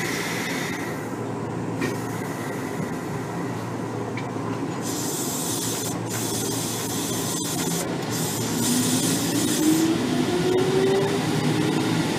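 Interior running sound of a Kotoden 1300 series electric car (ex-Keikyu old 1000 series) with resistance-controlled DC traction motors: a steady rumble of wheels and running gear, a few seconds of hiss in the middle, then the motor whine rising in pitch as the train gathers speed in the last few seconds.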